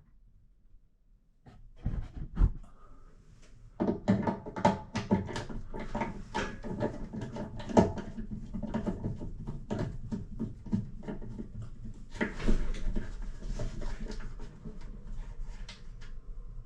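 Hands working at a Rheem RTEX-27 tankless water heater's opened control panel, pressing its control button and handling plastic parts. A couple of separate taps come first, then from about four seconds in a steady run of irregular clicks and light knocks.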